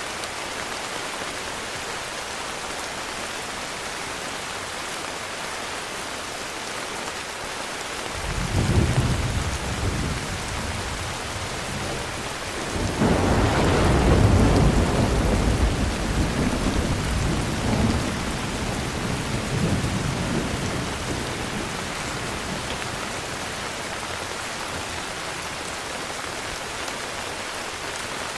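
Steady heavy rain with thunder. A deep rumble breaks in about a third of the way through, then a louder roll builds just before the middle and dies away in a few more rolls over the next several seconds.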